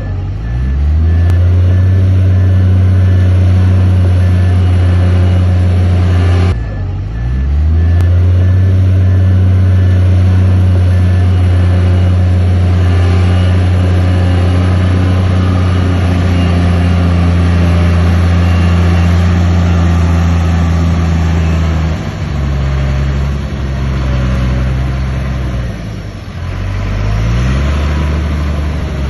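Bulldozer's diesel engine working hard under load. The revs climb at the start, dip sharply and build back up about six seconds in, then settle lower later and rise again near the end.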